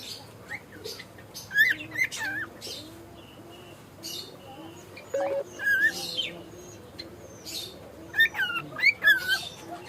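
Cockatiel chirping and whistling in short clusters of quick rising and falling notes, busiest about a second and a half in, around six seconds, and again near the end.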